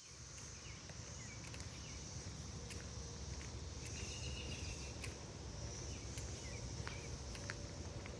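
Woodland ambience while walking: a steady high insect drone, a few short bird chirps with a brief buzzy call about halfway through, and footsteps with low rumble from the walker and microphone.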